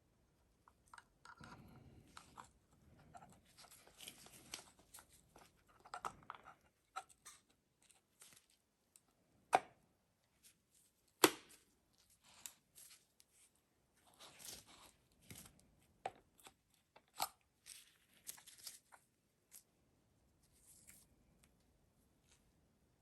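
Hands working on starter-motor parts: irregular scraping and rustling with scattered light clicks, and two sharp knocks, a little under ten and about eleven seconds in.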